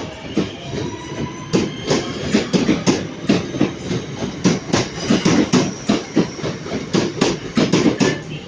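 Train wheels clicking over rail joints and pointwork at low speed in an irregular run of clacks, with a faint thin squeal from the wheels.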